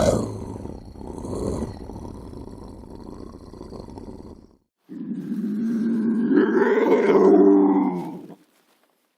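Eurasian-style wild lynx vocalising: a rough, throaty growl for about four and a half seconds, then, after a brief pause, one long drawn-out call that rises in pitch in its middle and stops abruptly.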